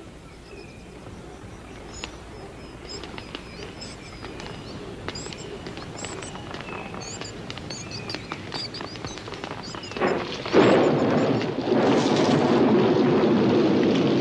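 Rainforest birds giving short, high chirps over a slowly building background. About ten seconds in, a sudden loud crack of thunder rolls into the steady rush of heavy rain.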